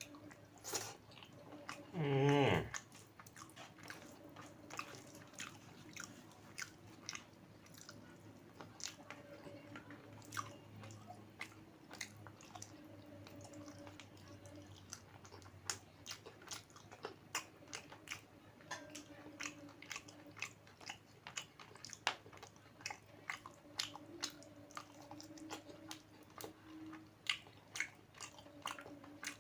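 A person chewing and biting chicken kosha with rice close to the microphone: a long run of small, irregular mouth clicks and smacks, with a brief hummed 'hmm' of approval about two seconds in.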